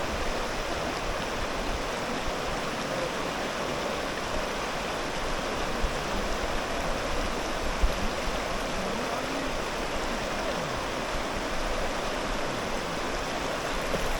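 A shallow mountain river flowing, a steady rush of water.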